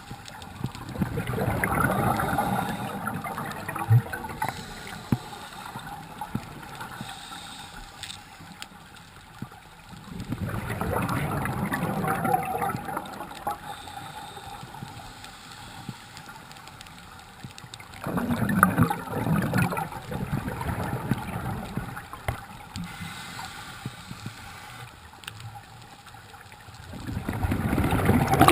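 Scuba diver's exhaled bubbles gurgling out of the regulator, heard underwater in about three-second bursts roughly every eight to nine seconds: the diver's steady breathing rhythm.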